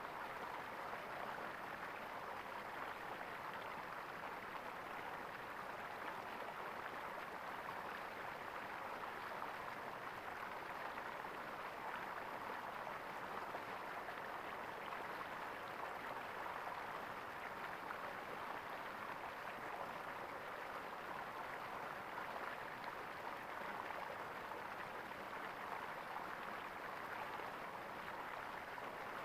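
Water gurgling and flowing steadily.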